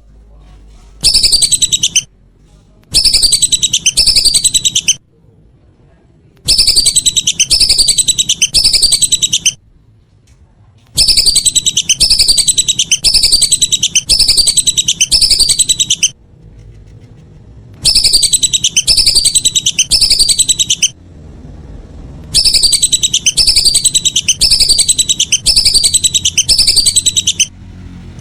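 Whistling ducks (belibis) calling: bouts of quick, repeated high whistled notes, each falling in pitch, about two a second, with short pauses between six bouts.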